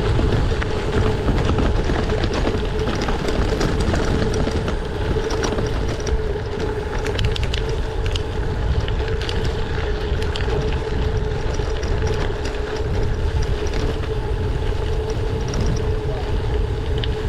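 Gravel bike descending fast on a dirt road, recorded by a GoPro Hero 9: wind rushing over the camera's microphone and the tyres rumbling over gravel and washboard, with a steady hum. Scattered clicks and rattles from the bike going over bumps, thickest about a third of the way through.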